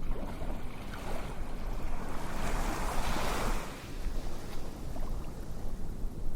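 Ocean surf: a steady low rumble with one wave washing in, swelling and fading away between about two and four seconds in.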